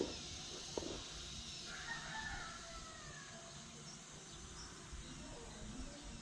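A rooster crowing once, faintly, about two seconds in.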